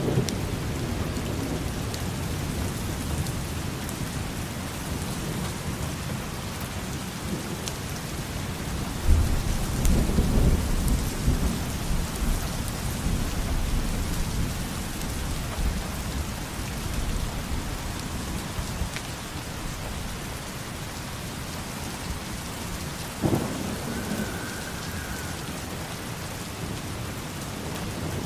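Steady rain falling on hard surfaces, with a low rumble of thunder that swells about nine seconds in and dies away over several seconds. Later, a single sharp knock stands out over the rain.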